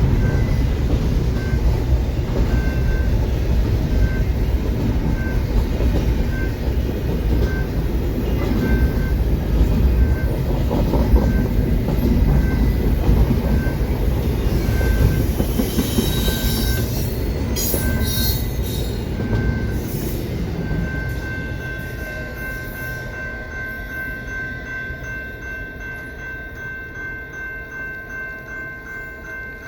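A train rumbling over the crossing, with wheels squealing briefly a little past the middle. The rumble then fades as the train clears. A General Signals Type 2 crossing bell rings a repeating tone throughout and stands out plainly once the train noise dies away.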